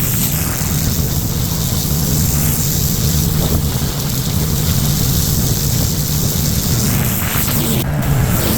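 Pressure washer running steadily: an engine drone with the hiss of the water spray over it.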